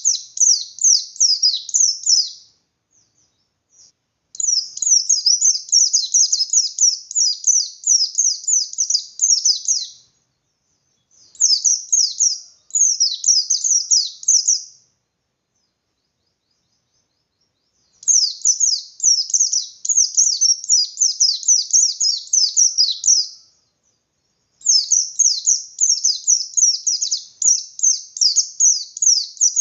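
A white-eye (pleci bustomi) singing its long, insistent 'ngalas' song: rapid runs of high, falling twittering notes in bouts of a few seconds, broken by short pauses. This is the full song of a bird in top singing form, of the kind used to rouse other white-eyes into answering.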